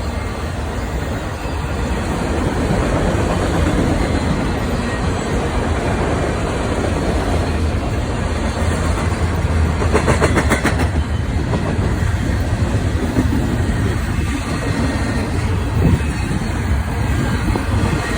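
Cars of a mixed autorack and intermodal freight train rolling past with a steady, loud rumble of steel wheels on rail. About ten seconds in there is a quick run of clacks.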